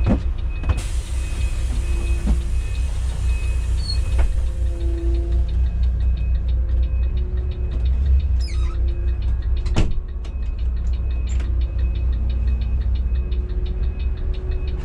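Intercity coach's diesel engine running, a steady low drone heard from the driver's cabin, with a few sharp knocks.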